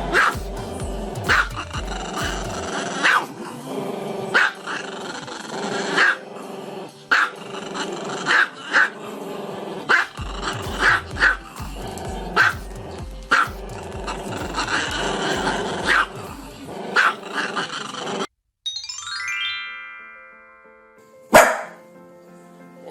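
A dog barking in sharp single barks roughly once a second over background music with a steady beat. The music stops about 18 seconds in, a brief falling tone follows, and one loud bark comes near the end.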